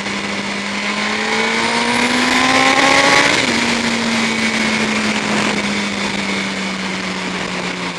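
Yamaha R1 sportbike's inline-four engine pulling up through the revs. About three seconds in, the pitch drops sharply as it shifts up a gear, then the engine holds a steady, slowly falling note. Heavy wind rush on the helmet-side microphone.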